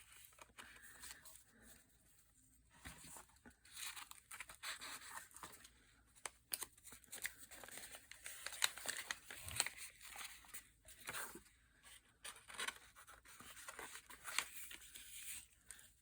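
Faint paper rustling and light taps as paper tags are slid into and out of paper pockets, in irregular short scrapes and clicks.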